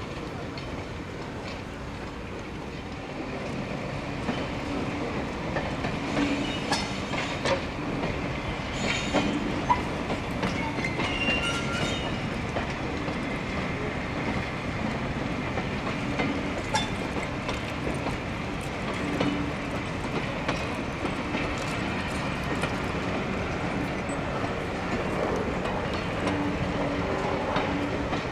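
A train running along the track, its wheels clicking over the rail joints, the noise building over the first few seconds. About eleven seconds in there is a brief high wheel squeal.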